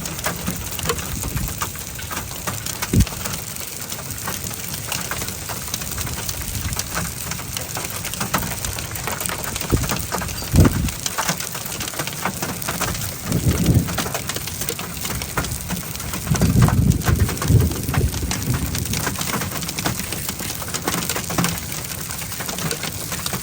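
Thunderstorm rain falling steadily in a dense patter of drops. Low rumbles rise and fall several times, the longest near the end.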